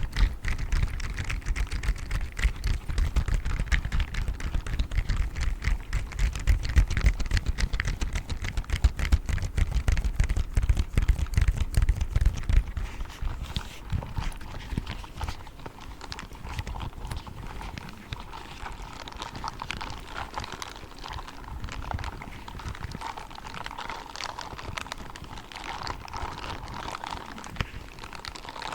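Grey spiked gloves rubbed and tapped: dense rapid scratchy taps with heavy low thumps for about the first twelve seconds, then quieter, lighter scratching.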